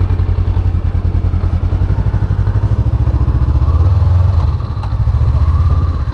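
Honda CB500X parallel-twin motorcycle engine idling just after being started, a steady, evenly pulsing low rumble.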